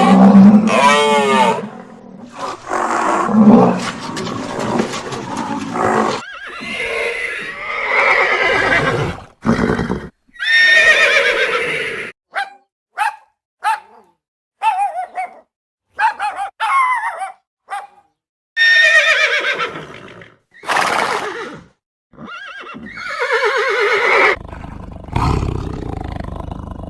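Horse neighing and whinnying: a string of separate calls, some long with falling pitch and some short, split by brief silences. Near the end a lower, rumbling call begins.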